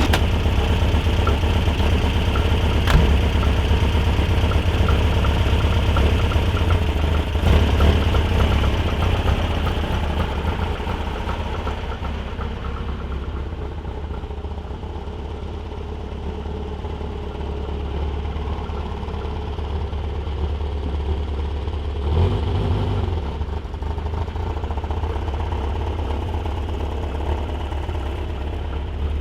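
Volkswagen Super Beetle's 1641cc air-cooled flat-four idling with a faint repeated ticking, the noise the warm engine makes that the owner likens to pre-detonation at cylinder three and that adjusting the timing does not change. A brief rise in engine speed about two-thirds of the way through.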